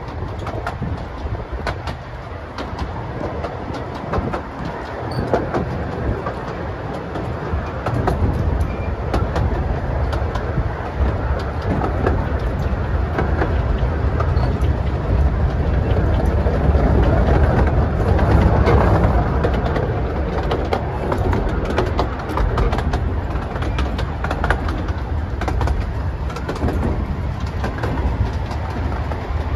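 A 15-inch gauge miniature train running, heard from an open carriage: the wheels rumble and click over the rail joints, growing louder about halfway through.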